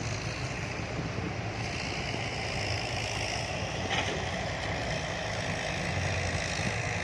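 Diesel dump truck engine running steadily with a low hum.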